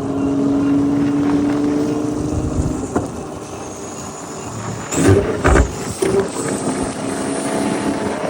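Porsche 911 GT2 RS's twin-turbo flat-six running with a steady exhaust note that fades after about three seconds, then a few loud sharp exhaust blasts about five to six seconds in.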